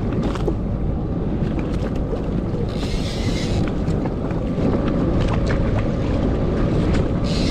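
Watercraft engine running steadily under way, with wind on the microphone and water noise; two brief bursts of hiss, about three seconds in and near the end.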